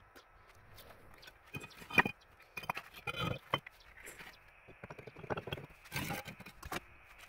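A series of irregular knocks and scrapes, like objects being handled and set down, with the sharpest knock about two seconds in and longer scraping around the middle and near the end.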